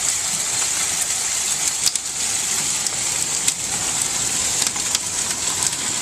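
A hailstorm with heavy rain: a steady hiss of pea- to nickel-sized hailstones and rain pelting down, with scattered sharp cracks of single hailstones striking hard surfaces.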